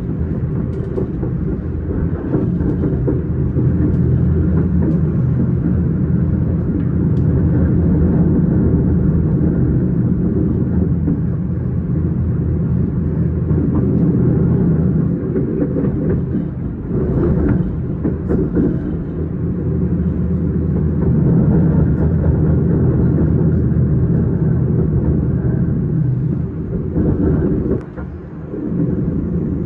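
S-Bahn commuter train running, a steady low rumble of wheels on rails, with a brief drop in level near the end.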